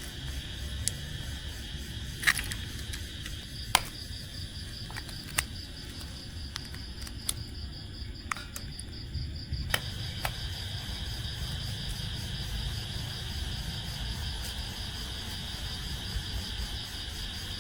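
Evening insect chorus, a steady high pulsing trill, with scattered sharp clicks and taps, the loudest two to four seconds in.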